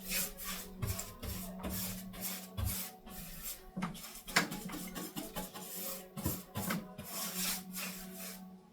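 Small paintbrush swishing back and forth as paint is brushed onto a ceiling, in quick repeated strokes, roughly two a second.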